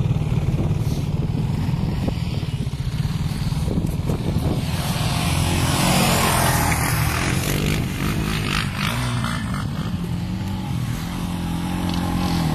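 Quad bike engine running and revving, its pitch rising and falling, with a loud rush of hiss about five to seven seconds in.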